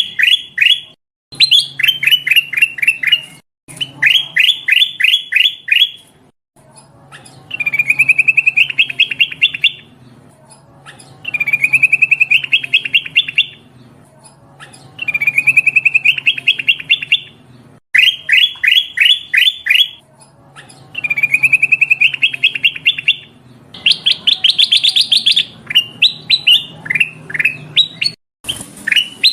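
Kutilang emas, a bulbul, calling in quick runs of sharp chirps. Each run lasts two to three seconds and repeats after a short gap. It is a female's lure call for calling in males.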